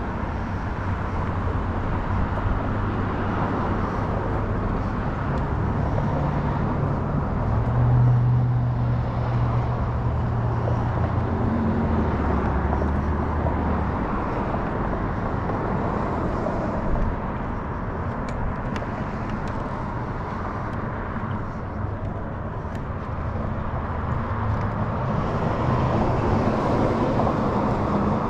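A car driving: steady road and engine noise, with a low engine hum that shifts in pitch now and then.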